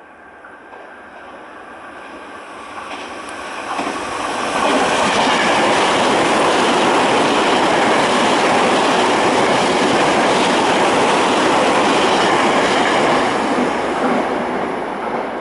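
Tokyo Metro 08 series electric train running past on the rails, its wheels and running gear growing steadily louder over the first four seconds. It stays loud for about eight seconds, then begins to fade near the end.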